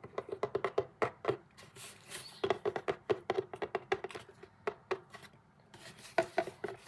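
Quick runs of light, sharp taps, several a second, with short pauses about two and five seconds in.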